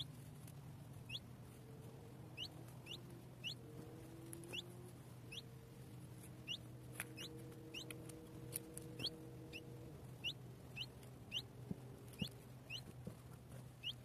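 A small bird repeating a short, high call note that sweeps upward, every half-second to a second, over a faint low steady hum.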